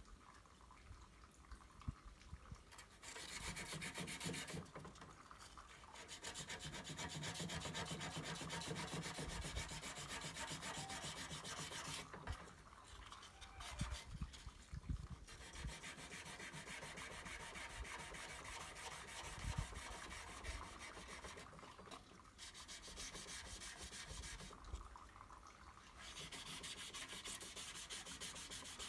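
Dry sanding of hardened body filler with abrasive paper, a scratchy rasping that comes in several bouts of a few seconds each with short pauses between them.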